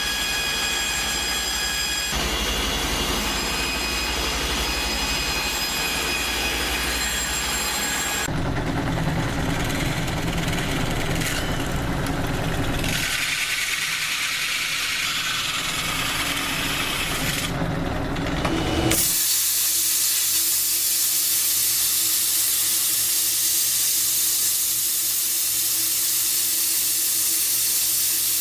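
Plasma cutter hissing steadily as it cuts steel plate, the sound changing abruptly about eight and again about nineteen seconds in.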